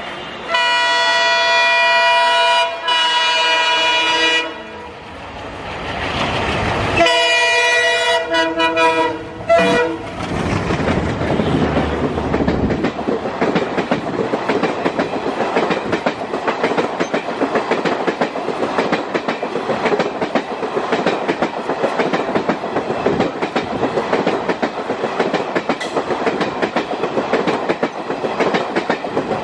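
Indian Railways WDG3A diesel locomotive sounding its multi-tone air horn in long blasts as it approaches at speed, a second blast over the rumble of the locomotive passing close by. Then the luxury coaches rush past with a steady rapid clickety-clack of wheels over rail joints and a loud rattle.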